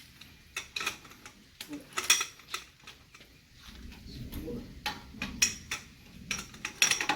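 Metal clinks and clanks of a breaker bar, pipe extension and socket being worked on a rear wheel hub bolt during its final 180-degree tightening. There are about seven sharp separate knocks, the loudest near the end, with a low muffled rumble in the second half.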